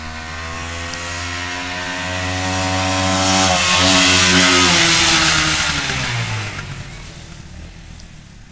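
Dirt bike doing a fly-by at speed. The engine note grows louder as the bike approaches, drops in pitch as it passes about three and a half seconds in, and fades away as it rides off.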